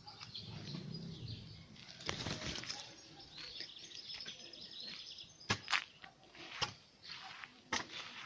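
Small birds chirping and twittering, with a few sharp clicks or knocks in the second half.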